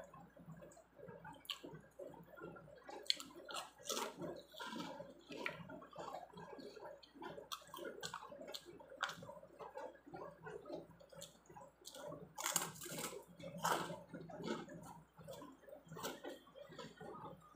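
Close-up chewing of crisp Shrimpon shrimp crackers and rice, with a stream of irregular sharp crunches. A louder run of crunching comes about two-thirds of the way through.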